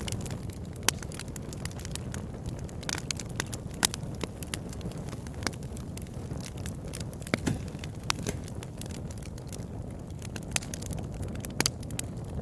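Wood campfire burning, with irregular sharp crackles and pops, a few much louder than the rest, over a steady low rumble.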